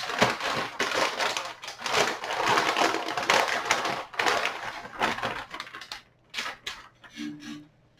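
Packaging being handled as a graphics card is unwrapped: crinkling and rustling for about six seconds, then a few scattered clicks and taps.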